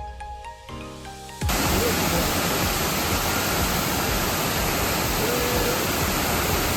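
Music ends about a second and a half in and gives way to the loud, steady rush of a waterfall, even across all pitches with no rhythm.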